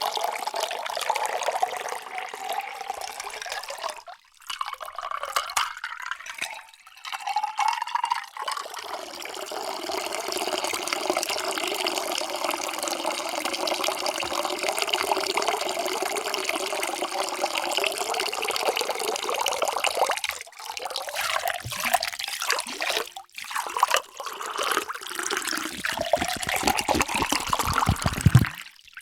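Water poured into a container in a few separate pours with short breaks. The ringing pitch of the filling vessel climbs as it fills, most clearly in the last pour.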